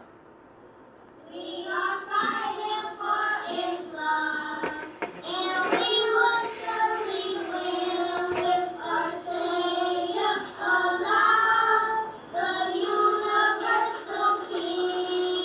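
A high-pitched voice singing a melody, unaccompanied, coming in about a second in after faint hiss, with a couple of brief clicks partway through.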